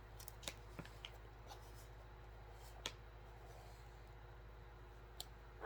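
Faint, scattered small clicks and ticks over quiet room tone, with a sharper click about three seconds in.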